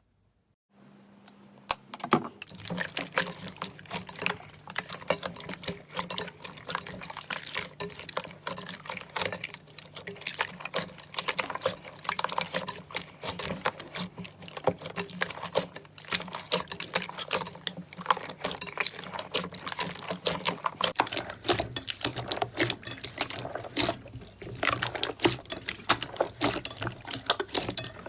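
Slime being squished and worked, making dense, rapid wet clicks and pops; it starts about two seconds in after a moment of near silence.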